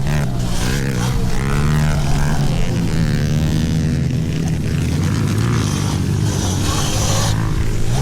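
Pit bike engines running and revving, their pitch rising and falling, with hiss over the top.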